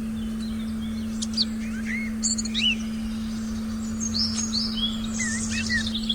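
Forest birds chirping and calling, several short calls and quick gliding notes from about a second in, over a steady low synthesized tone that holds without change.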